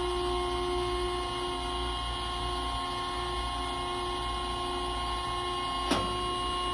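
Hydraulic power unit of a Transfluid DB 648 K CNC mandrel tube bender running under load during a bend, a steady hum with a few steady whining tones. A single short click comes near the end.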